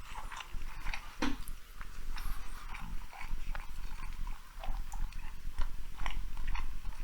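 Close-miked chewing and wet mouth sounds of a person eating large sushi rolls, a string of irregular smacks and clicks picked up on a clip-on lapel microphone.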